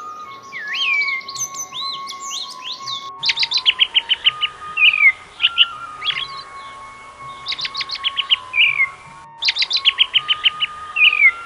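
Songbirds singing and chirping: quick runs of short repeated notes and swooping calls, over a steady held tone that steps up and down in pitch now and then.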